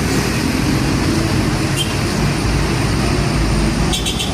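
Heavy road traffic with a large diesel truck's engine running and tyre noise, a steady low sound with no let-up.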